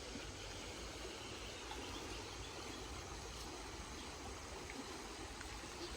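Steady rushing of a flowing river, an even wash of water noise with no distinct events.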